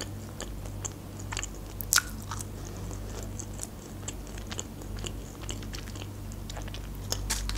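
Close-up chewing of French fries: soft wet mouth clicks and smacks, the sharpest about two seconds in, over a steady low hum.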